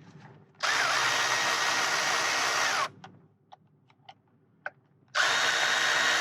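Power drill running in two bursts, the first about two seconds long and winding down as it stops, the second starting about five seconds in; it gives a steady high whine. A few small clicks come between the bursts.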